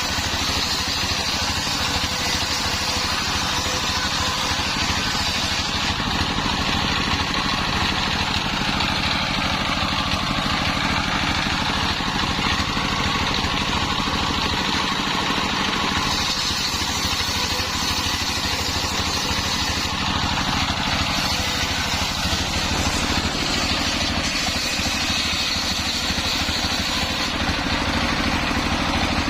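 Homemade engine-driven circular saw running steadily: a constant engine drone with a high whine and hiss from the blade, holding the same level throughout.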